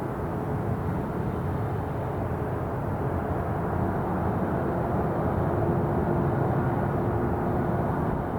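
Airliner jet engines rumbling steadily, growing slightly louder, with a faint steady tone over the rumble.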